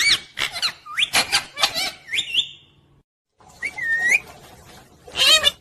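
Pet parrot chirping: a quick run of short whistled chirps that arch up and down in pitch, then after a short break a single rising chirp and a louder call near the end.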